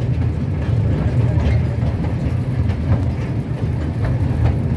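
Steady low rumble of a small passenger ride train running along its track, heard from aboard an open carriage.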